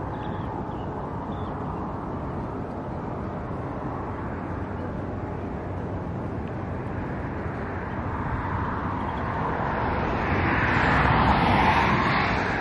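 A steady low outdoor rumble. From about two-thirds of the way in, a passing engine noise swells, peaks and then fades near the end.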